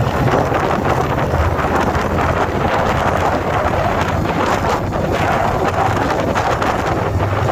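2021 Indian Scout Bobber Twenty's V-twin engine running at a steady speed while riding, under heavy wind buffeting on the microphone.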